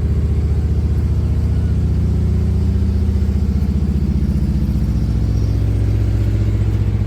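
An engine running steadily with a rapid, even pulse and a deep hum.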